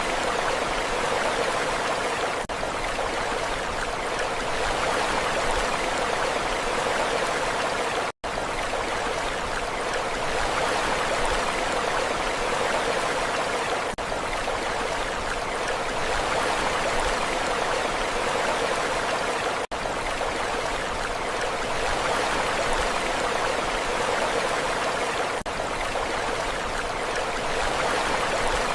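Steady rushing water, an even hiss with no rise and fall of waves, broken by a split-second cut to silence about eight seconds in.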